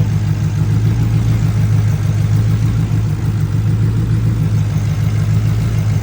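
Ford Crown Victoria's 4.6-litre V8 idling steadily at a loud, even level, running warm with a newly fitted 160-degree thermostat.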